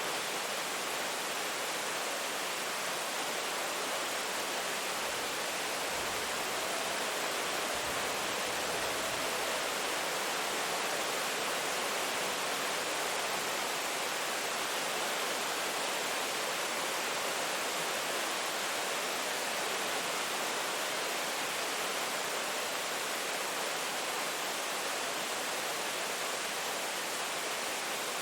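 Steady rain falling, an even hiss with no separate drops standing out. A faint low rumble sits under it for a few seconds near the start.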